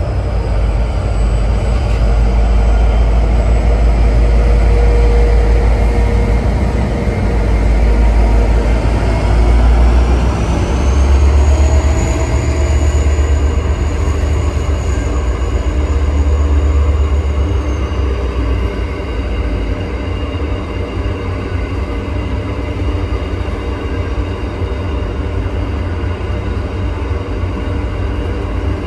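Brisbane suburban electric passenger train running along the track: a steady low rumble with a thin high whine. The whine falls away at first, rises again about ten seconds in, holds, then fades out past the middle.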